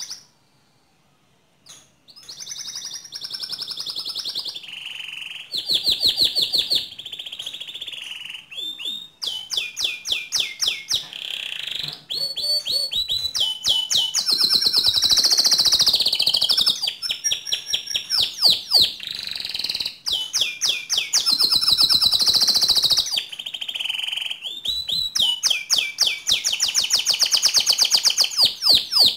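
Domestic canary singing: fast trills of rapidly repeated high notes in a string of phrases with short breaks, beginning about two seconds in after a brief quiet.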